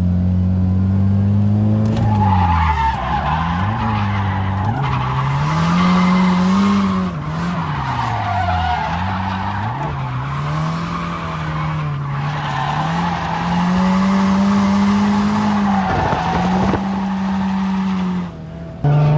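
Drift car's engine revving up and down while its tyres squeal and skid through a slide, the revs rising and falling several times.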